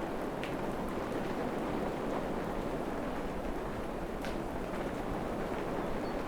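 Steady rain falling on forest foliage, an even hiss with a couple of sharper drop ticks.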